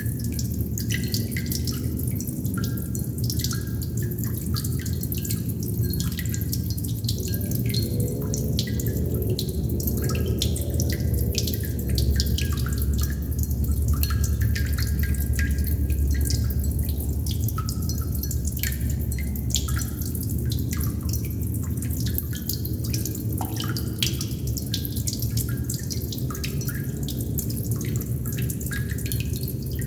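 Water droplets dripping steadily: a continual, irregular patter of short plinks over a steady low rumble that swells a little around the middle.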